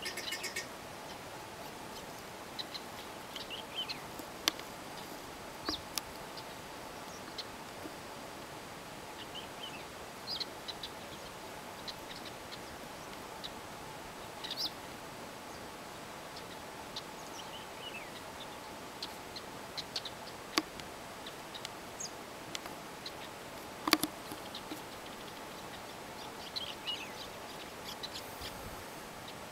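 Birds chirping sporadically, short high calls scattered over a steady faint hiss, with a few sharp clicks; the loudest click comes near the end.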